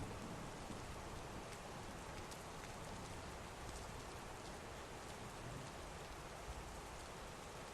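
Heavy rain falling steadily: an even hiss of rain with scattered individual drop ticks.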